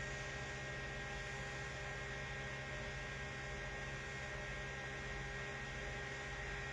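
Steady electrical hum: several fixed tones over a low, even hiss that does not change.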